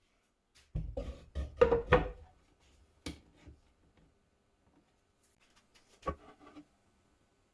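Wooden parts being handled on a workbench: a quick cluster of knocks and clunks, then two single knocks, one about three seconds in and one about six seconds in.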